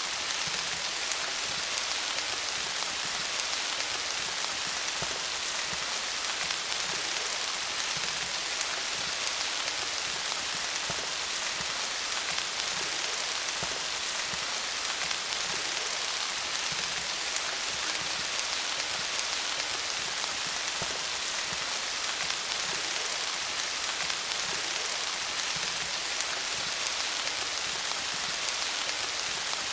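Steady rain falling on leaves, an even hiss with many small drop taps.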